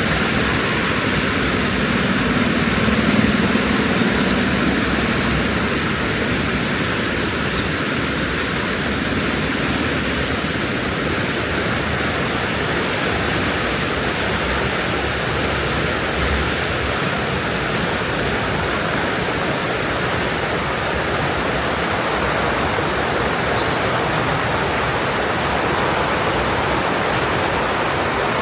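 Steady rush of fast-flowing mountain water. A low rumble swells briefly a few seconds in, and a few faint high chirps come through the noise.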